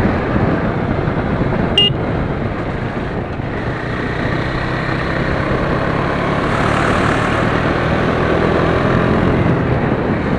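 KTM Duke 390's single-cylinder engine and exhaust running steadily under way, mixed with heavy wind rush on the microphone. A short sharp click about two seconds in.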